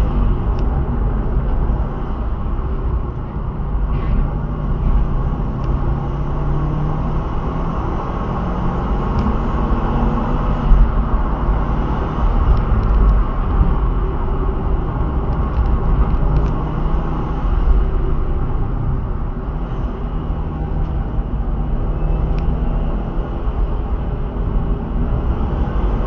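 Turbocharged car engine running steadily under way, with heavy low rumble and road and wind noise; its pitch drifts a little as speed changes.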